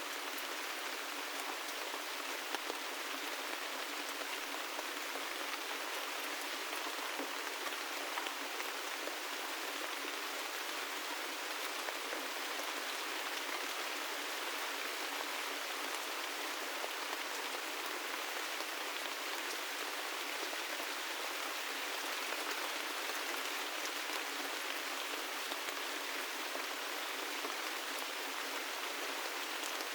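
Steady gentle rain falling, a continuous patter with scattered individual drops ticking, thin and without any low rumble.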